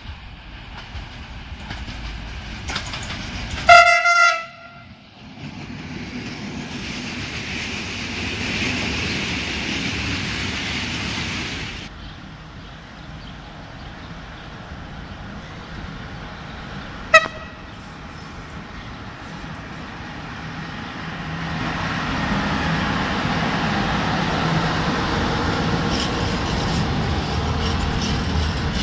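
Train horn sounding one loud single-note blast of under a second, about four seconds in, then a very short toot around the middle. In between and afterwards a train runs on the rails, its running noise growing louder near the end as it comes closer.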